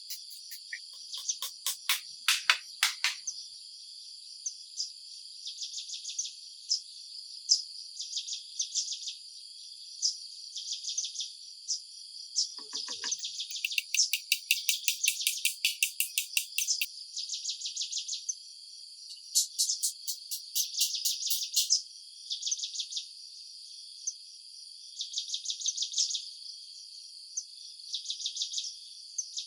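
Insects chirping: a steady high buzz overlaid with repeated trains of rapid, evenly spaced pulsed chirps, each lasting a second or two. A few louder, sharper pulse bursts come near the start and about halfway through.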